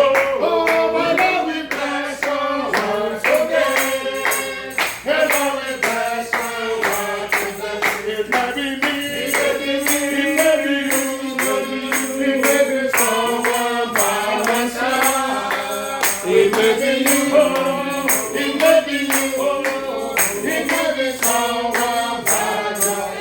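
Group singing of a worship song, with a tambourine keeping a steady beat.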